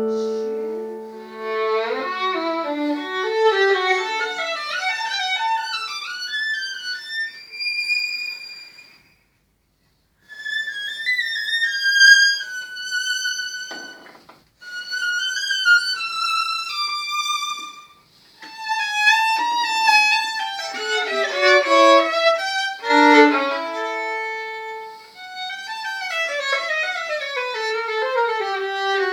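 Violin playing a melodic passage in phrases of rising and falling runs, breaking off completely for about a second roughly nine seconds in.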